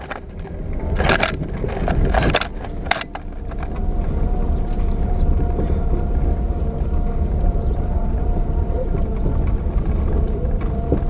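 Vehicle engine running with a steady low rumble, heard from inside, after a few sharp knocks or clicks in the first three seconds.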